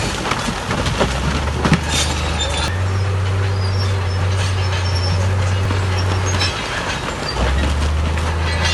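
Crawler bulldozer's diesel engine running steadily, its low note dropping twice, with the steel tracks clanking and squealing.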